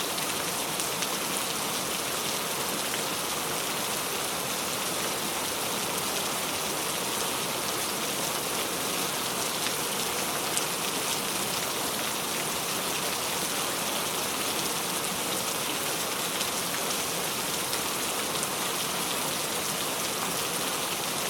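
Steady rainfall: a continuous hiss of rain falling on a surface, with faint individual drops ticking through it.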